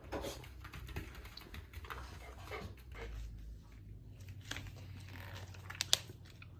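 A Welsh corgi's soft breathing and mouth noises with scattered small clicks, and one sharper click about six seconds in.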